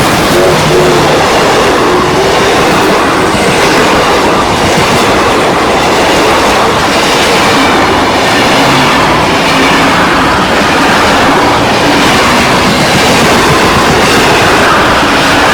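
Steam-hauled passenger train passing close by, its carriages rolling over the rails with a loud, steady rumble and no let-up.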